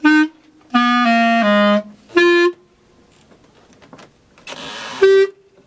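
Clarinet playing short low-register notes: one note, then three notes stepping down, another short note, a pause, a brief hiss, and one more note.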